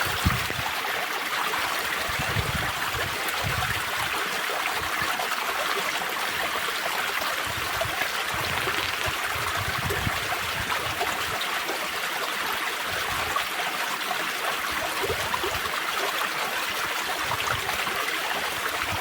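Spring water trickling and gurgling steadily in a small stream.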